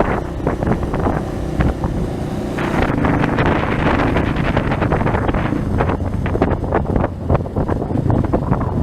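Trail motorcycle riding along a dirt road, its engine running steadily under way, with wind buffeting the microphone.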